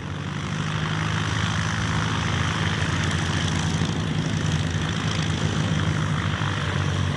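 Single-engine propeller aircraft, a de Havilland Chipmunk with its four-cylinder Gipsy Major engine, opening up to take-off power. The engine and propeller sound grows louder over the first second, then holds steady.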